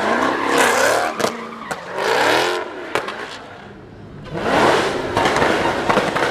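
Car engine revving hard in repeated surges, its pitch rising and falling, with several sharp cracks mixed in. It drops quieter about four seconds in, then revs up again.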